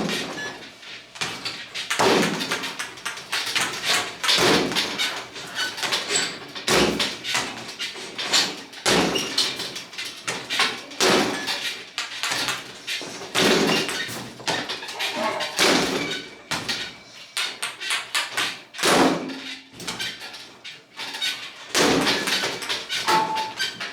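Basketball shots at a small indoor hoop: loud knocks of the ball hitting the backboard and rim about every two seconds, with the ball bouncing and rattling in between.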